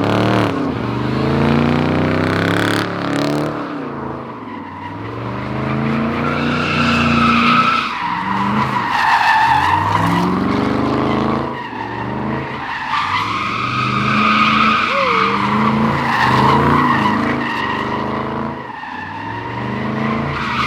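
Muscle car doing donuts: the engine revs rise and fall repeatedly while the tires squeal in long stretches as the car slides.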